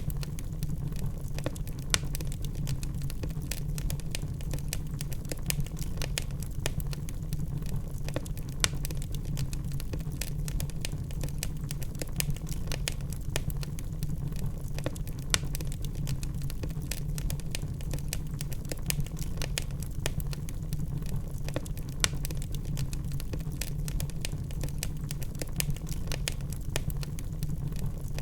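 Log fire crackling: many irregular sharp crackles with a few louder pops, over a steady low rumble.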